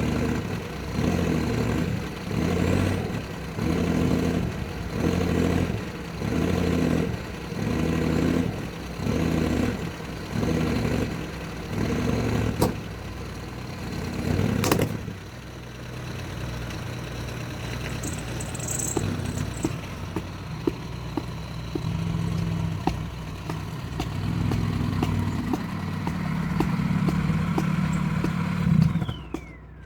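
Mini truck engine revving in regular surges about once a second as the truck strains on a rope to rock a buckthorn stump loose. It then runs more steadily, pulls harder near the end, and cuts off suddenly.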